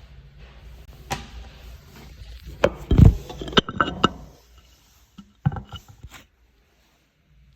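A string of separate knocks and clunks, about seven in all, the loudest a heavy low thump about three seconds in.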